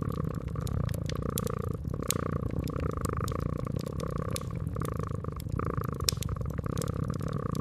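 Domestic cat purring steadily in slow breath cycles, over a wood fire crackling in frequent sharp pops, several a second.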